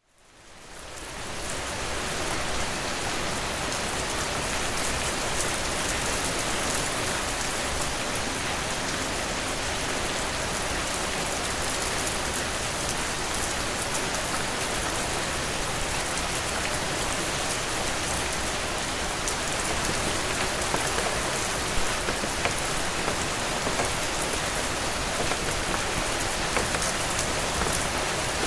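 Steady rain falling, a dense even hiss with fine scattered drop ticks, fading in over the first two seconds.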